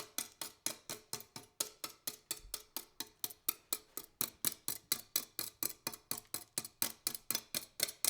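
Steady, even ticking, about four or five sharp ticks a second, like a clock or a ticking beat.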